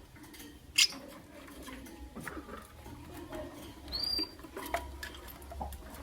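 Caged lovebirds: one sharp, high chirp a little under a second in and a brief thin call about four seconds in, over light scratching and tapping of feet and beaks on the cage.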